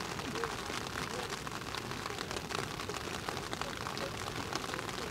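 Steady rain falling, with many close individual drops ticking through it.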